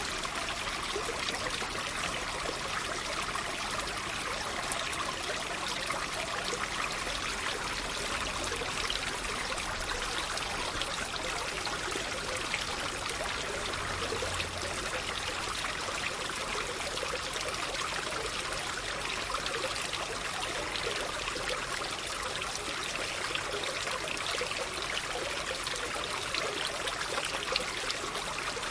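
Running water trickling and splashing steadily, an even rushing hiss with no pauses.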